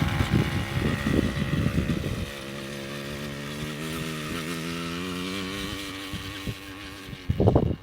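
Motorbike engine running at a steady speed, its note wavering slightly and fading after about six seconds. Heavy low rumbling bursts sit over it in the first two seconds and again near the end.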